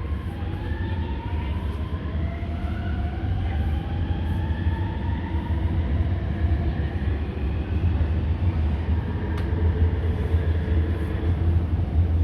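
Shanghai Metro Line 2 electric train running along the platform: a steady low rumble that grows louder, with a motor whine that rises in pitch several times over.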